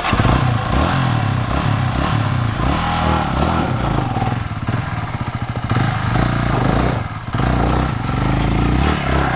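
Dirt bike engine running loud, its pitch rising and falling as it is revved.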